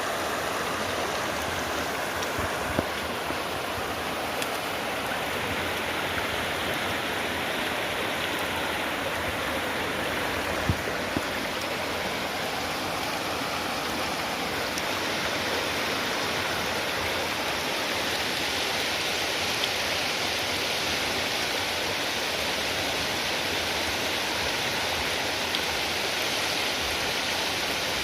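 A stream or river running, a steady rush of water with a few faint clicks or knocks.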